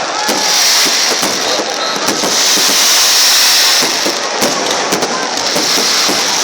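Fireworks crackling in a dense, continuous shower of sharp cracks and pops, swelling louder twice.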